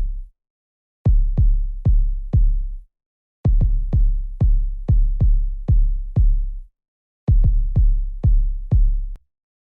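Soloed electronic kick drum with a very deep low end, each hit decaying in about half a second, playing about two hits a second in short runs of four to seven, with complete silence between the runs. It is a single track of a hip-hop mix played through a mixing plug-in.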